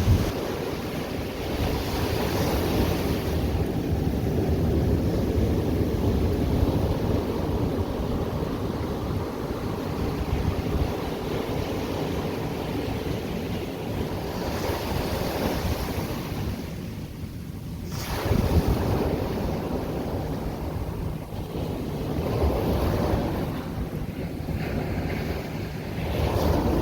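Ocean surf breaking and washing on the shore in repeated swells, with a brief lull and then a wave crashing about two-thirds of the way through. Wind rumbles on the microphone throughout.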